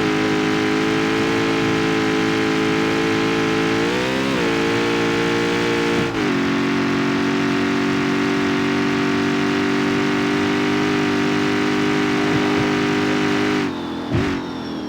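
Jaguar F-Type's supercharged V8 running at steady revs. It rises briefly about four seconds in, then settles a little lower about six seconds in, and falls away near the end with a short blip.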